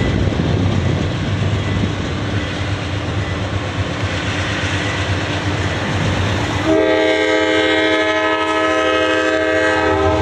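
Freight train rolling past with a steady rumble of wheels on rail; about two-thirds in, a locomotive air horn sounds a chord of several notes and holds to the end.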